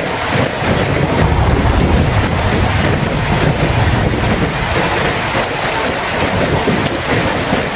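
Steady rain falling, with a low rumble beneath it through the first half that fades out.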